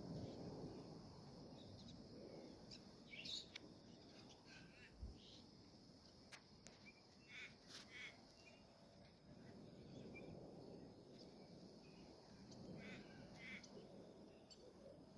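Faint outdoor ambience: scattered short bird chirps come and go over a low, steady rumble.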